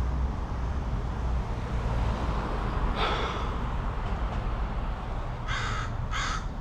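Steady low rumble of city traffic, with a louder rushing swell about three seconds in and two short harsh bursts near the end.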